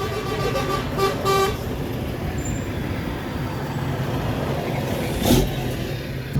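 A vehicle horn toots twice in quick succession, the second blast a little longer, about a second in, over the steady running of passing vehicle engines. A brief sharp thump or gust comes near the end.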